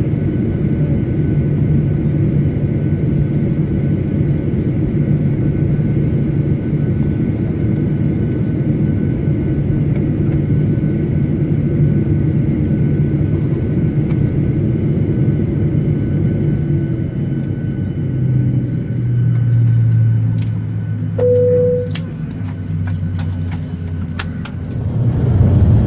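Boeing 737-900 cabin noise after landing: a steady low hum with faint steady whines, which drops in pitch and wavers from about 18 seconds in. A short single tone sounds a little past 21 seconds, and a few sharp clicks follow near the end.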